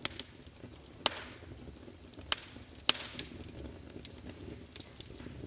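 Wood fire in a fireplace crackling: scattered sharp pops and snaps, the loudest about a second in and twice more a little past halfway, over a faint low rumble.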